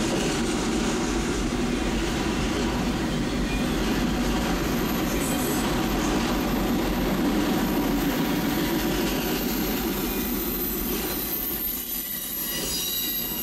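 Freight train of autorack cars rolling past, a steady rumble of steel wheels on rail. Thin high wheel squeal comes in near the end.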